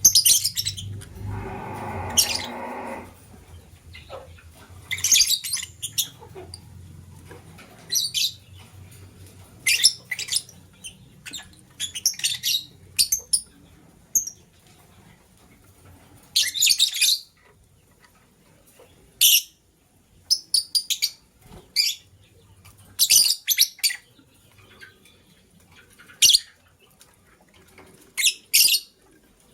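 Lovebirds chirping: short, high-pitched chirps in scattered bursts, with a lower, harsher buzzy call lasting about two seconds near the start.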